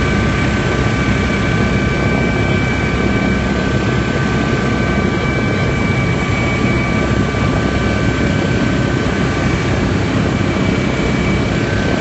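Helicopter in flight: steady, loud engine and rotor noise with a few constant high-pitched whine tones over it.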